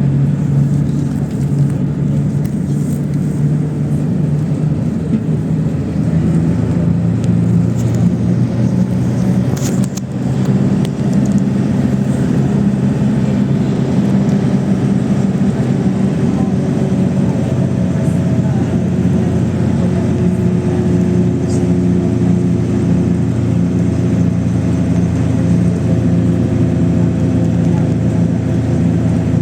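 PAZ 32054 bus engine running steadily as the bus drives, heard from inside the cabin, its pitch shifting slightly now and then. A single sharp knock about ten seconds in.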